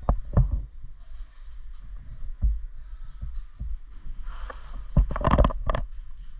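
Irregular thumps and knocks: two near the start, one about halfway, and a quick cluster of sharper knocks about five seconds in, over a low rumble.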